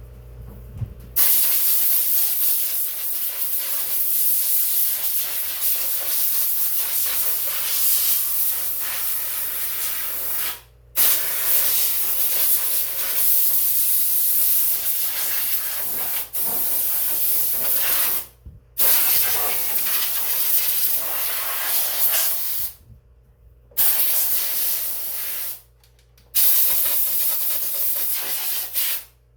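Compressed-air blow gun hissing in five long blasts with short breaks between them, blowing loose dirt off the machine.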